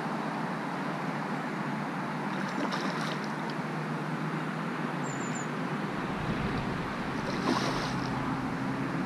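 Steady rush of wind, with wind buffeting the microphone as a low rumble from about six seconds in. Brief rustles at about three seconds and again near the end.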